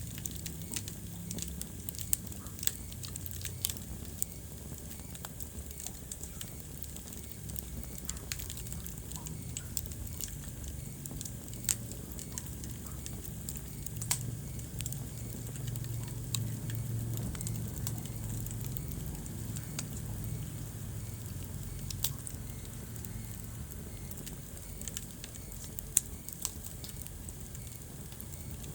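Wood fire burning in a fireplace: irregular sharp crackles and pops, a few of them louder, over a low steady rumble of flames.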